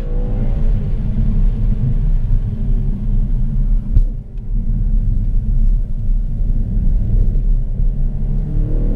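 Audi RS5 with its stock exhaust running at low, steady revs, a deep rumble, with a short click about four seconds in.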